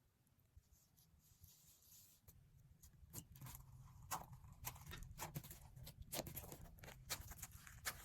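Faint sticky clicks and pops of slime being handled, irregular and growing busier from about three seconds in, over a low hum.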